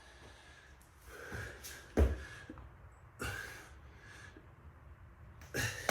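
A man breathing hard with sharp, gasping exhales during a three-pump burpee. There is a heavy thud about two seconds in and another loud burst of effort near the end.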